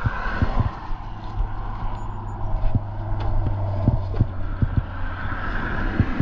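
Road traffic going by, with a steady low hum and the noise of passing vehicles swelling at the start and again near the end, plus a few scattered knocks.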